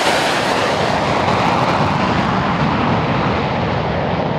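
Boeing 737 airliner's jet engines running loud as it makes a low pass. A steady, dense rush whose highest sounds fade from about two seconds in as the aircraft moves on.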